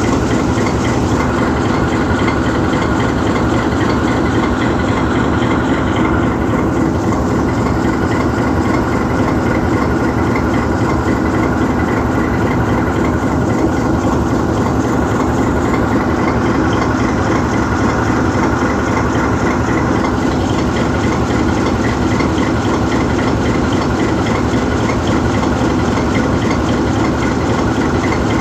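GE U20C diesel-electric locomotive's V12 diesel engine idling steadily while the locomotive stands parked, a constant low running sound with a steady hum above it.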